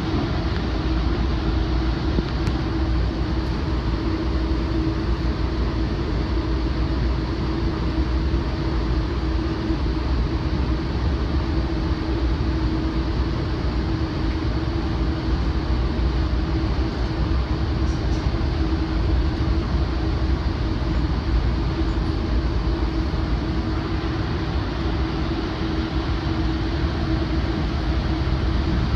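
Steady running noise inside a Rotem commuter rail cab car moving behind a GE AC4400CW diesel locomotive: a continuous rumble of wheels on rail with a steady hum.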